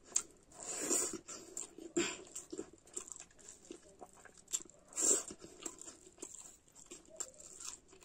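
Close-up mouth sounds of a person eating rice and curry by hand: wet chewing and lip-smacking. There are louder smacks about a second, two seconds and five seconds in.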